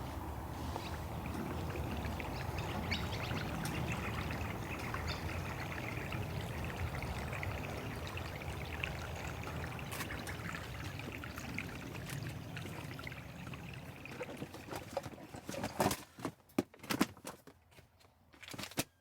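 Liquid pouring steadily for about fifteen seconds, then tailing off, followed by a string of sharp clicks and knocks.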